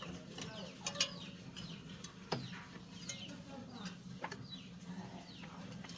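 Birds calling in many short, sweeping chirps over a steady low hum, with a few sharp taps.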